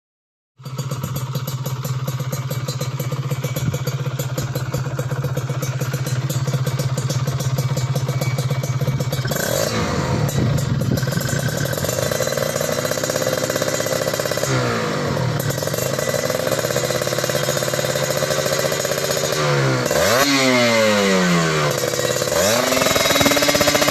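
Kawasaki Ninja 150 R/RR single-cylinder two-stroke engine breathing through an aftermarket Creampie exhaust, idling steadily and then revved in several throttle blips from about ten seconds in, the pitch rising and falling with each blip.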